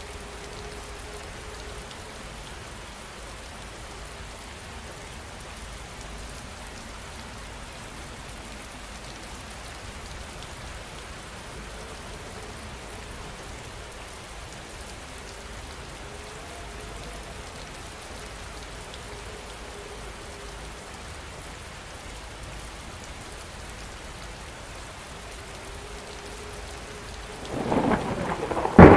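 Steady rain falling, then a loud thunderclap breaking in near the end.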